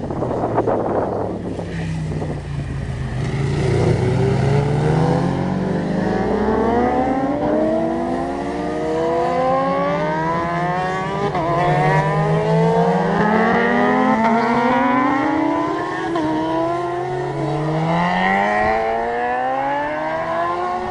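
Racing motorcycle engines accelerating hard, the pitch climbing for several seconds at a time and dropping back at each gear change, over and over.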